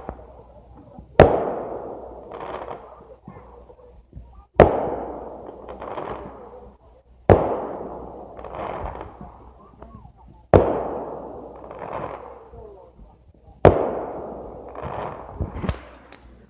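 Fireworks going off: five loud booms about three seconds apart, each followed by a long rolling echo with smaller pops and crackles in it.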